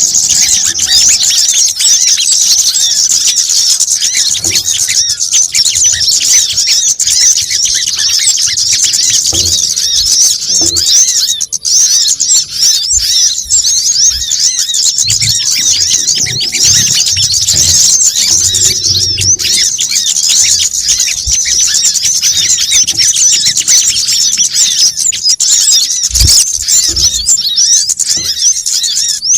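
Dense, frantic chorus of high-pitched sunbird chirps and trills, many calls overlapping without a break. This is a bird-lure recording meant to draw in sunbirds.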